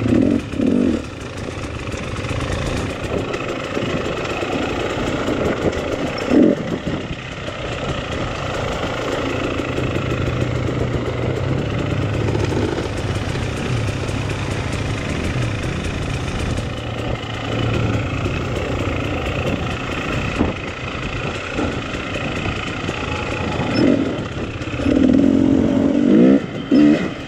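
Enduro dirt bike engine running at low revs, with short bursts of throttle about half a second in, around six seconds in, and again over the last few seconds, and steadier running in between.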